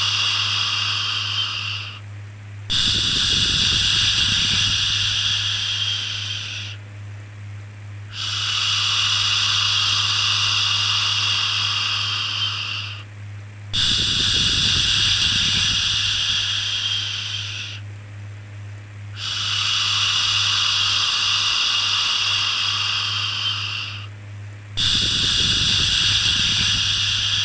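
Rhythmic shushing, a long 'shhh' about every five and a half seconds, each one fading at its end before a brief pause, over a low steady hum.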